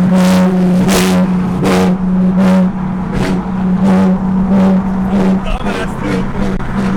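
BMW E30's swapped S52 straight-six running loud through an open, barely muffled exhaust, holding a steady, droning note while the car is driven, with a rough edge that pulses about once every three-quarters of a second.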